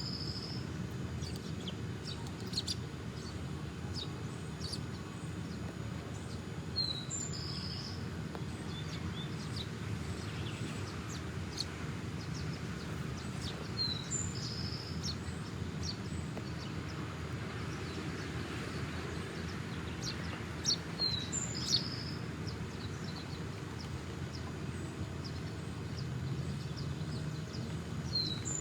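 Songbirds calling: one bird repeats a short two-note high call about every seven seconds, with scattered brief chirps between, over a steady low background rumble.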